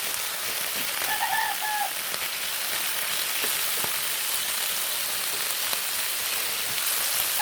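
Chicken pieces searing in hot oil in a pan, a steady sizzle, with a brief faint high tone about a second in.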